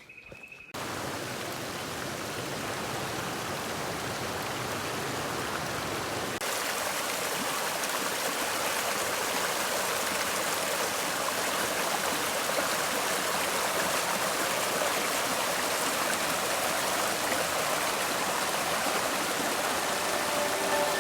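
Steady rush of cascading water. The sound shifts abruptly about six seconds in and grows slightly louder toward the end.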